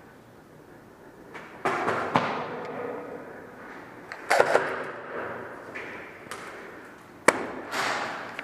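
Airsoft gunfire: a handful of sharp shots and knocks, the first about a second and a half in and the last near the end, each followed by a short noisy rush.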